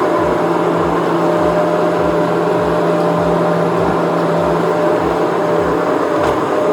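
Skid steer engine running steadily while working, a loud, even drone with a low pulse repeating about two and a half times a second.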